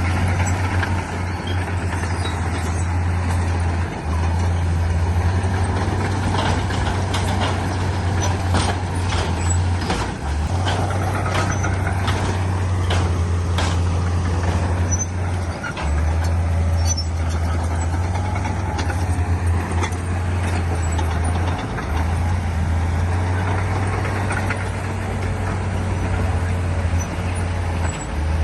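Heavy diesel earthmoving machinery, a bulldozer and dump trucks, running steadily under load with a deep engine drone that dips briefly every few seconds. Around the middle there is a run of knocks and clatter, like rock and dirt being pushed or tipped.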